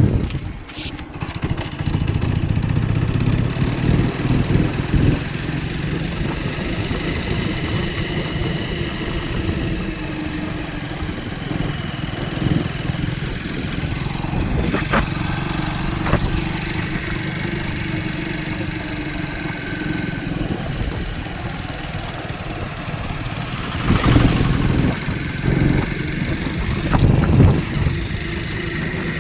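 Motorcycle engine running steadily while riding, with louder surges about 24 and 27 seconds in.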